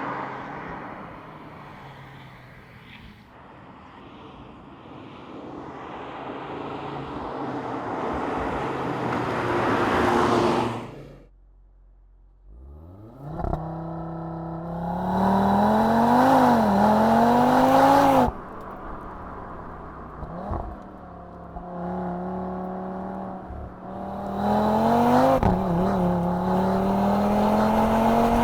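Audi RS3's 2.5 TFSI five-cylinder turbo engine and exhaust, in several short pieces. First a building engine and exhaust noise. Then, after a brief near-silent gap, the engine catches and climbs to idle, revs up and down twice, idles steadily, and near the end revs rise smoothly.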